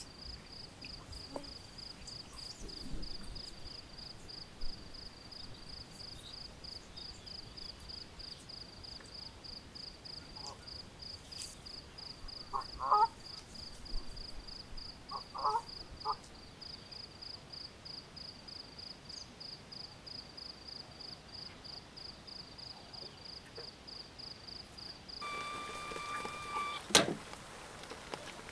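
Cricket chirping in a steady, fast-pulsing high trill. Two brief bird calls come in about halfway through. Near the end two sharp knocks are heard.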